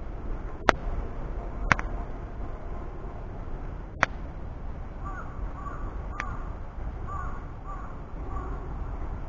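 Wood fire burning over a low steady rumble, with a few sharp pops of the wood, the loudest events, scattered through. From about halfway a bird calls in a string of short notes.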